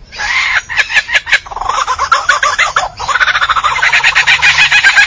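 A bird calling in fast runs of short, repeated chattering notes, with sharp clicks among them; about three seconds in, the calls become continuous and louder.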